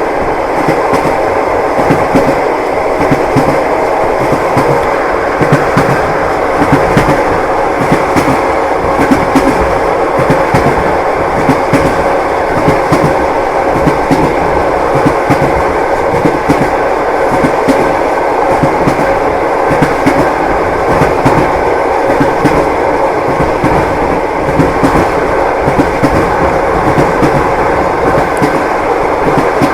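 Wheels of a moving railway carriage clacking over rail joints, over a steady rumble of the running train.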